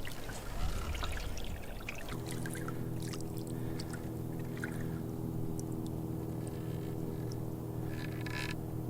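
Canoe paddle strokes splashing and dripping water, then from about two seconds in a steady low hum made of several held tones.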